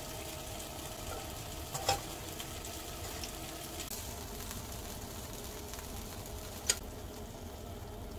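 Chicken wings sizzling steadily in a grill pan, with two sharp metal clicks from the tongs or utensils, one about two seconds in and one near the end.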